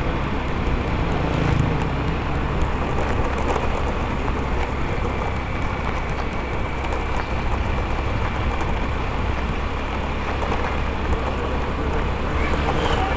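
Motorcycle on the move: steady wind rush on the microphone over engine and road noise.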